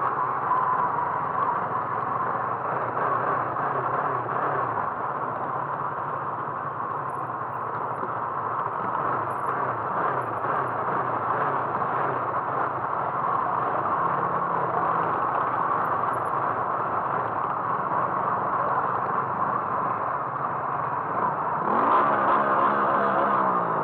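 A car driving, with steady engine and road noise. Near the end the sound swells and the engine note shifts in pitch.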